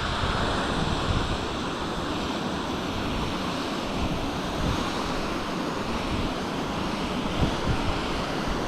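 Steady rushing of a waterfall on a moorland beck, an even wash of water noise, with wind buffeting the microphone underneath.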